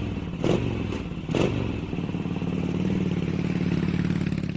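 Honda Gold Wing GL1800's 1.8-litre flat-six engine running steadily at idle, with two short clattering knocks about half a second and a second and a half in.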